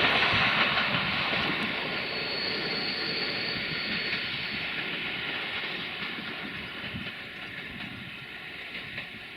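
Passenger train rolling along the rails and moving away, its wheel and rail noise fading steadily with a hiss.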